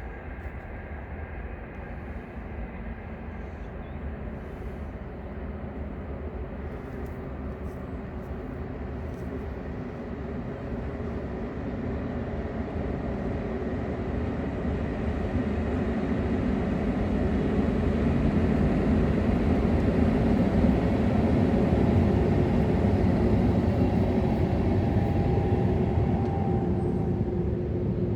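Freight train rumbling past, growing steadily louder as it approaches and at its loudest in the later part, with a few steady tones over the rumble.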